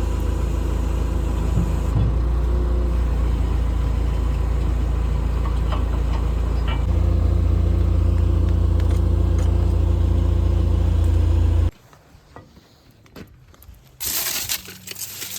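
Skid steer engine running steadily, getting louder about seven seconds in as it takes on more work. It cuts off abruptly near the end, leaving quieter sounds and a brief burst of hiss.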